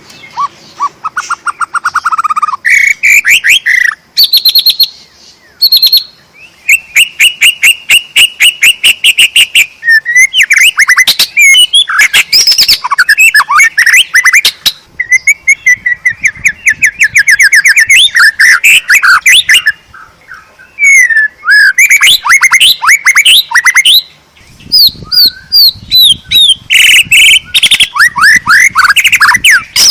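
White-rumped shama (murai batu) in full, continuous song: loud, varied phrases of rapid trills, quick runs of repeated notes and clear whistles, broken by a few short pauses.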